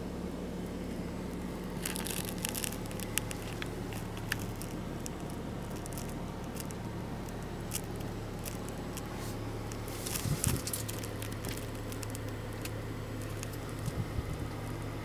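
BMW X5 35i's turbocharged straight-six idling, heard inside the cabin as a steady low hum. Light crackles and rustles come over it about two to three seconds in and again around ten seconds in.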